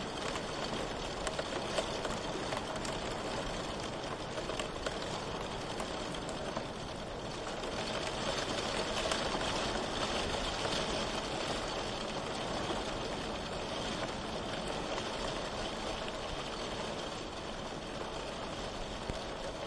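Steady rain falling, with a fine patter of drops, growing a little louder in the middle.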